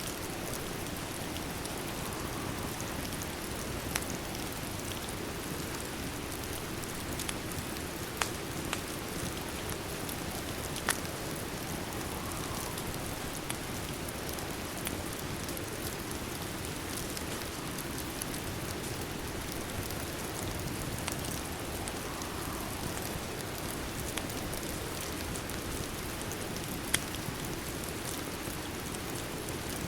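Steady rain falling, with a few sharp pops now and then from a crackling wood fire.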